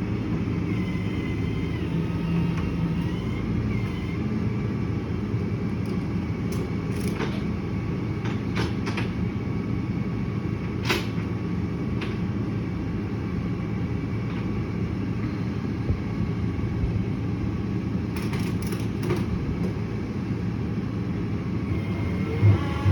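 A vehicle engine running steadily, a low rumble, with a few faint clicks and knocks over it.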